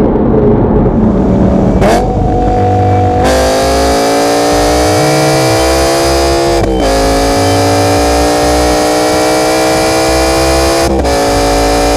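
For the first two seconds, the Jaguar F-Type R's supercharged 5.0 V8 is heard inside the cabin as the car coasts and slows off the throttle. Then comes a different car's engine accelerating hard through the gears: its pitch climbs steadily and drops sharply at two upshifts about four seconds apart.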